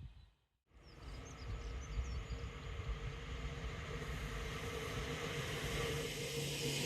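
An approaching train on the main line: after a brief silence, a steady rumble and rail hiss that grow steadily louder. A bird chirps a few times about a second in.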